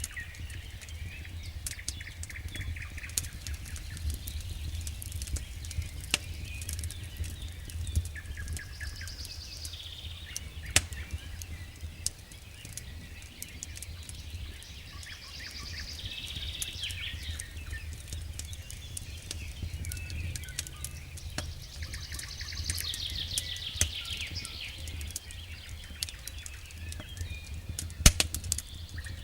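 Wood fire burning in a fireplace: logs crackling with irregular sharp pops over a low steady rumble, one loud pop near the end. A few high chirping trills come and go.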